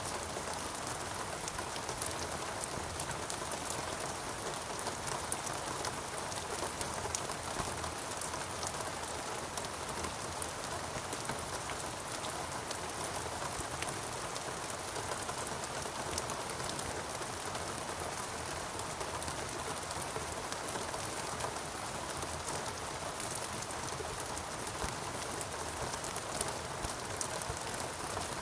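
Steady rain falling on foliage in a rainforest, an even hiss with many fine drop ticks.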